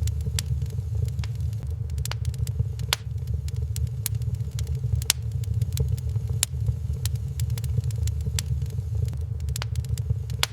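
Wood fire burning in a fireplace, crackling with irregular sharp pops, several a second, over a steady low rumble.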